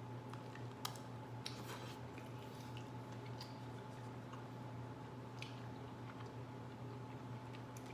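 Close-up eating sounds of a seafood boil: faint chewing with scattered small clicks and wet squishes of shells being handled and bitten. A steady low hum with a faint higher tone runs underneath.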